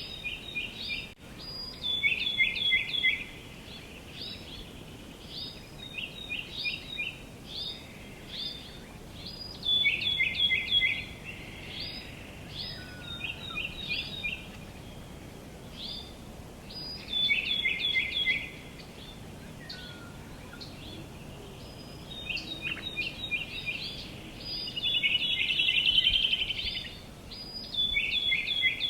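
Songbirds singing outdoors: short phrases of several quick notes, stepping down in pitch, recur every few seconds, with scattered single chirps between them, over a steady background hiss.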